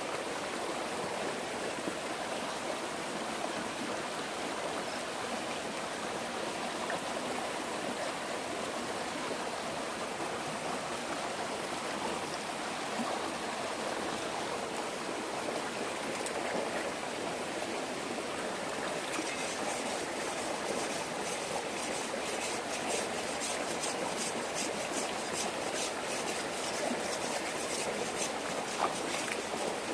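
Steady rushing of flowing stream water. From about two-thirds of the way in, faint quick high clicks or scrapes sound over it.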